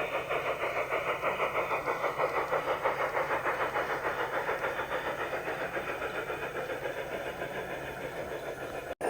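Garden-scale model train running, with a fast even rhythm of beats, several a second, over a steady low hum. The beat slows slightly towards the end.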